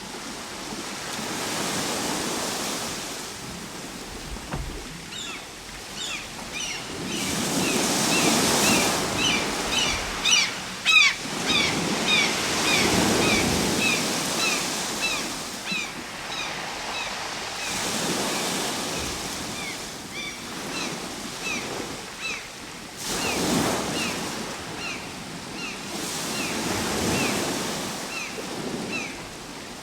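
Ocean waves breaking and washing in, surging every four to five seconds, with one sharper, louder break about eleven seconds in. A run of short high chirps repeats through most of the second half.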